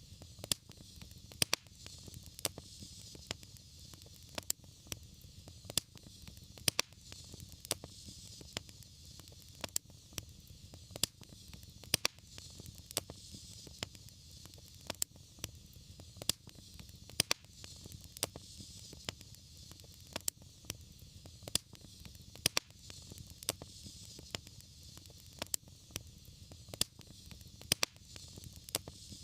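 Wood fire burning in a fireplace, crackling: a steady hiss and low rumble of flame with irregular sharp pops and snaps several times a second.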